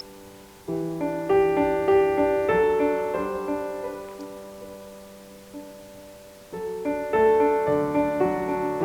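Background music: a soft piano playing slow phrases of notes, with a new phrase entering about two-thirds of the way through.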